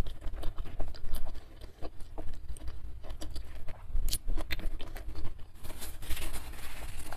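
Close-miked chewing with many small mouth clicks, with a sharper cluster of clicks about four seconds in. Near the end a paper tissue rustles for about a second.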